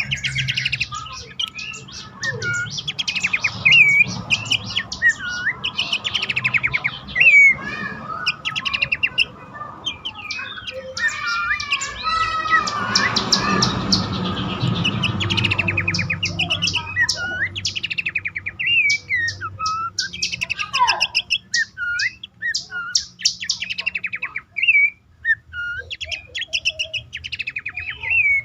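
Pelanduk semak (Horsfield's babbler) calling: a long series of short chirping notes and rapid chattering runs, repeated over and over.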